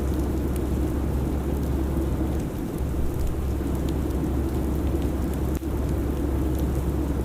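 Steady airliner cabin noise in flight: a deep, even rumble with a hiss of air above it and faint scattered ticks, dipping for an instant about five and a half seconds in.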